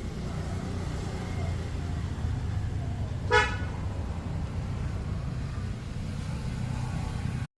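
Steady low rumble of road traffic, with one short vehicle horn beep a little over three seconds in.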